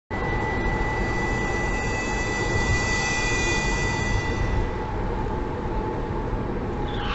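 Steady road and engine noise of a moving car picked up by a dashcam, starting abruptly, with a thin high whine that fades out about four to five seconds in.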